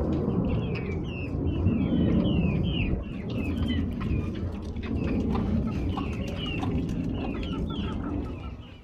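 Chicken chicks peeping: a steady run of short, falling chirps, two or three a second, over a loud steady low rumble.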